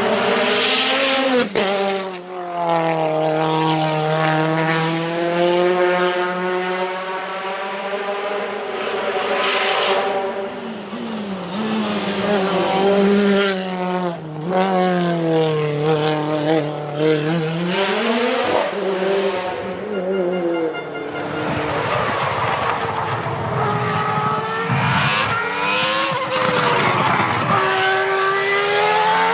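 Nissan 370Z's 3.7-litre V6 engine being driven hard, its note repeatedly climbing and dropping in pitch as it revs up and eases off, with a rougher stretch without a clear engine note about two-thirds of the way through.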